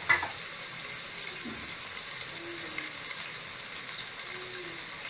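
Food frying in hot oil in a pan, a steady sizzle, with one metal clink of a utensil right at the start.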